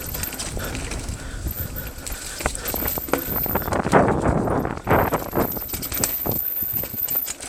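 Mountain bike clattering over a rough, rocky trail: irregular knocks and rattles of the bike and tyres on stones, with a low rumble underneath.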